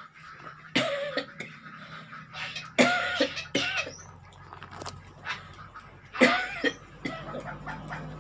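A man coughing in several hard fits, about a second in, around three seconds and again around six seconds, after choking on betel nut he was chewing.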